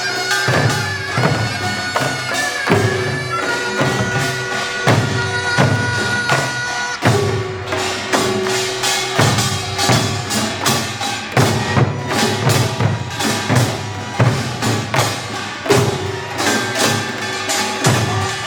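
Korean pungmul band playing: the taepyeongso, a shawm, holds a loud reedy melody over a steady beat of drums and gongs.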